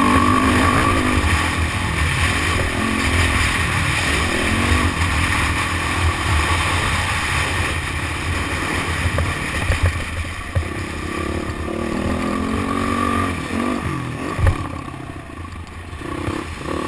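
Motocross bike engine revving up and down as it is ridden around a dirt track, with a sharp knock about fourteen and a half seconds in and a brief easing off of the throttle just after.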